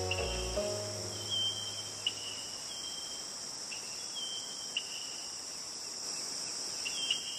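Insects buzzing steadily at a high pitch, with short chirps repeating roughly once a second. Soft background music dies away in the first second.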